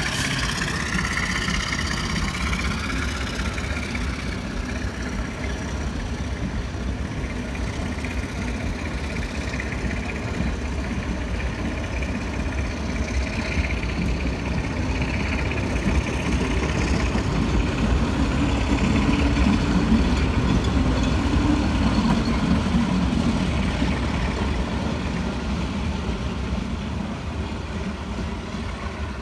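Diesel-hauled passenger train pulling out: the coaches roll past on the rails over a steady low diesel engine rumble. The rumble swells about two thirds of the way through, then fades near the end as the train draws away.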